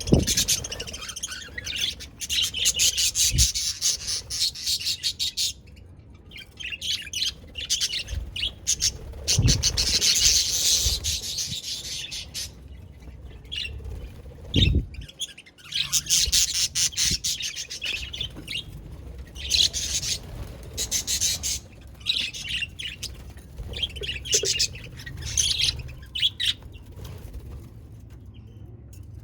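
Budgerigars chirping and chattering in bursts of rapid, high twittering with short pauses between them. A few dull low thumps sound among the calls.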